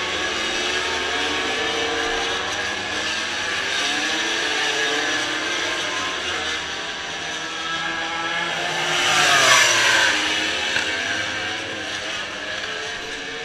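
Motorcycle engines and traffic running under a steady rushing noise. A vehicle passes loudly about nine seconds in, its pitch falling as it goes by.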